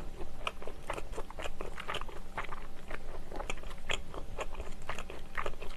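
Close-up chewing and biting of a sausage onion bread, heard as many small, irregular mouth clicks and soft crunches.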